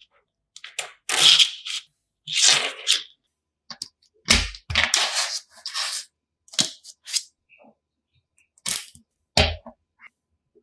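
Coloured magnet building pieces being handled and snapped together: an irregular series of sharp clacks and short scrapes, with two heavier knocks, about four seconds in and near the end.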